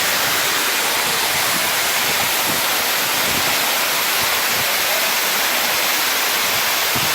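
A waterfall's falling water rushing in a loud, steady roar of spray.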